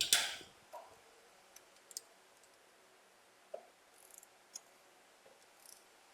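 Hand tools clicking and clinking against metal: one sharp clatter at the start, then scattered light clicks.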